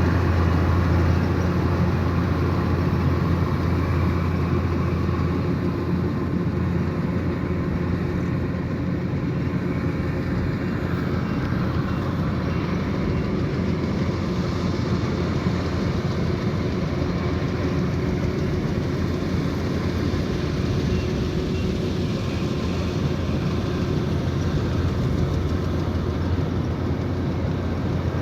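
Kubota DC108X combine harvester running steadily with a constant low engine hum, a little louder in the first few seconds.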